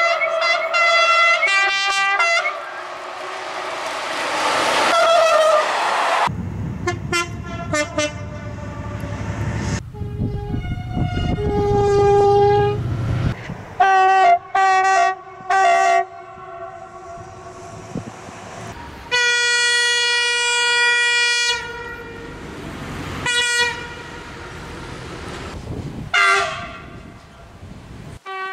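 A run of locomotive horns sounding multi-note signals: patterns of short rhythmic toots, some passages over the rumble and rush of a passing train, and one long steady blast lasting a couple of seconds.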